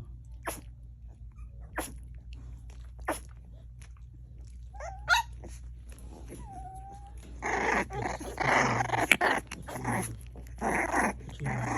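A puppy sneezing in short sharp bursts about a second apart, then giving a brief rising whine. In the second half comes a run of louder growls, about half a second each.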